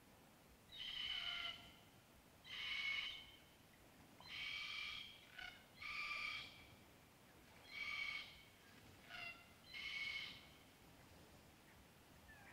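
A bird calling over and over: about six short calls of under a second each, one every second or two, with a couple of shorter notes between them.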